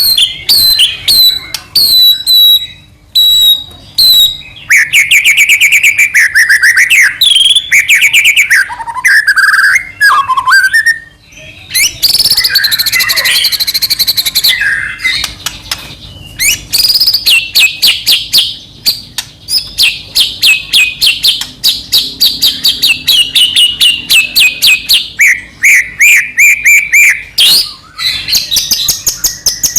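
White-rumped shama (murai batu) singing a long, loud, varied song. It opens with short repeated whistled notes and runs into fast trills and chattering phrases that barely pause.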